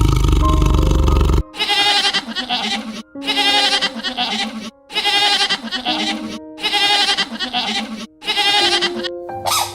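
Five bleating calls, each about a second and a half long with a quavering wobble, repeated at an even spacing. A loud low sound fills the first second and a half, and steady musical notes run underneath.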